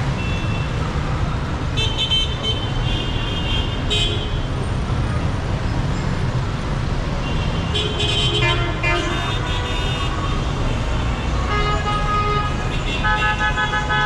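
Busy city street traffic: a steady rumble of car and motorbike engines, with car horns honking several times, about two seconds in, around eight seconds, and again repeatedly near the end.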